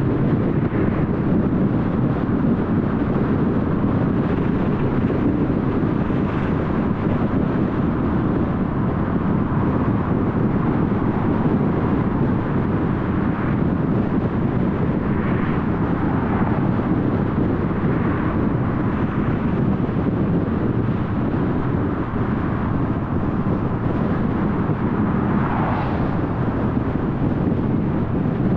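Steady road and engine noise of a car driving, heard from inside, a constant low rumble with a few faint passing swishes.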